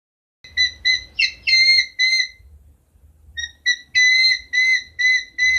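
A bird's short whistled calls: about five notes, a pause of about a second, then six more, each note holding one steady pitch.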